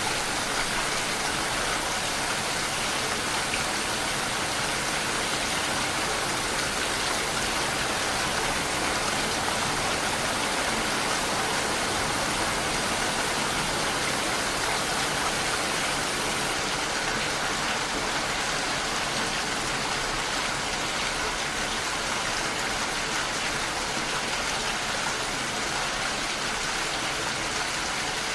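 Steady rain: a dense, even hiss of falling drops that keeps the same level throughout.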